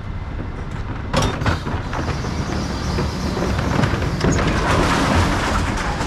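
Mercedes Econic bin lorry's engine running, with a sudden clatter about a second in, then louder rumbling and rattling building through the rest.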